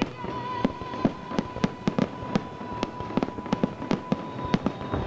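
Fireworks going off in a rapid series of sharp bangs, several a second. A steady high tone is held through most of it.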